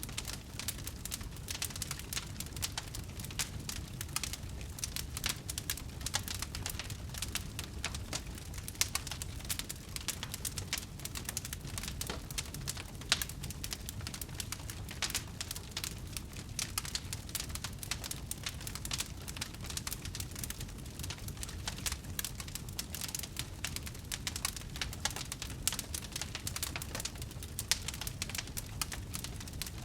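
Wood fire burning, with dense irregular crackles and pops over a low, steady rumble of flame; one pop stands out about thirteen seconds in.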